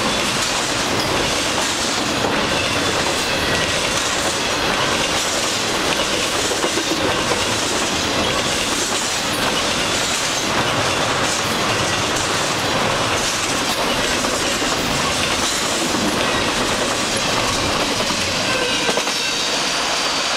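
Canadian Pacific double-stack intermodal freight cars rolling past at speed: steady rumble with wheels clicking rhythmically over rail joints and occasional faint wheel squeal.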